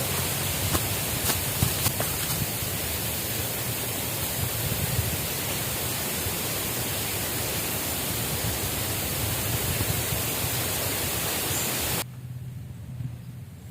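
Steady rushing noise of water, with a few faint clicks in the first two seconds; it drops off abruptly about twelve seconds in.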